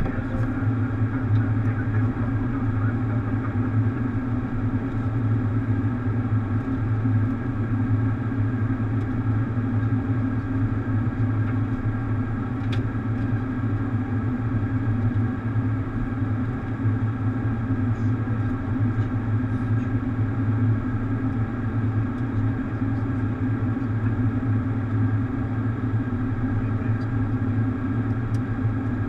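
Steady hum and rush of a Boeing 737 cockpit, engine and airflow noise, with a low drone and a constant pitch that does not change.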